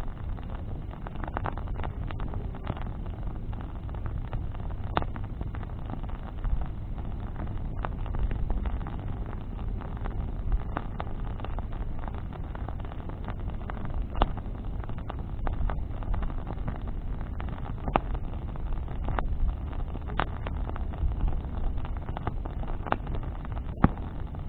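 Wood bonfire crackling, with irregular sharp pops and snaps from the burning branches over a steady low rumble.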